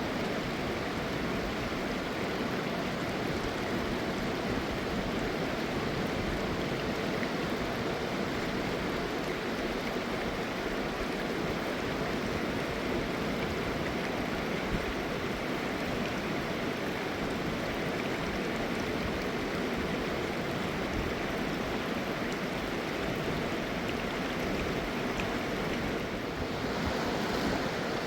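Mountain river rushing steadily over rocks, a continuous water noise that grows a little louder near the end.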